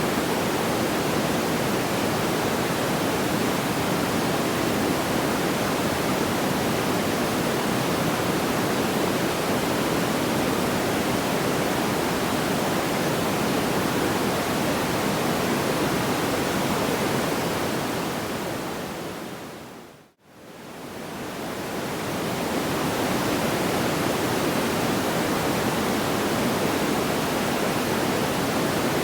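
Steady, even rushing noise with no distinct crackles. About twenty seconds in it fades down to silence and straight back up, the seam of a looped track.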